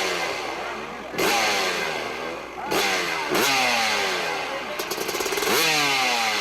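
Motocross bike engine revved hard in short bursts about four times, the pitch falling away after each burst.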